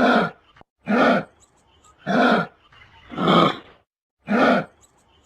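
Kangaroo calling: five short, evenly spaced calls, about one a second.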